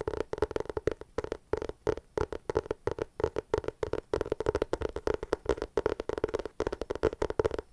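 Hands making fast, irregular tapping clicks on an object, many clicks a second in short runs with brief pauses between.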